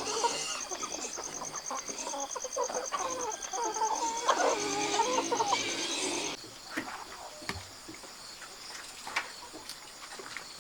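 Chickens clucking, over a fast, high, pulsing trill. About six seconds in the sound drops off abruptly to a quieter stretch of scattered clicks and taps.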